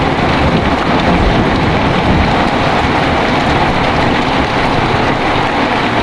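Heavy rain pouring steadily, with a low thunder rumble fading away over the first couple of seconds.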